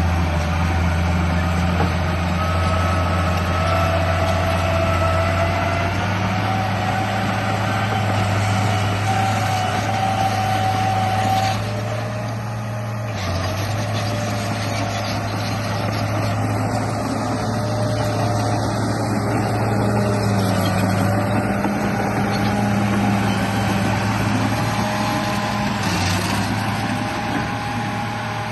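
RC bulldozer's electric drive motors and gearing running continuously, a steady low hum with a whine that shifts in pitch as the load changes, dipping briefly about twelve seconds in.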